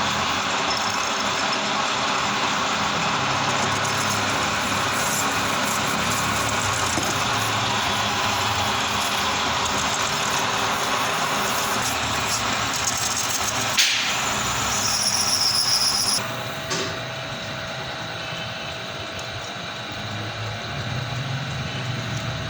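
Manual metal lathe running while a cutting tool turns a stainless steel plate, a loud steady cutting noise. A little past halfway there is one sharp click, then a brief high squeal. The cutting noise stops about three-quarters through, leaving the machine's steady hum.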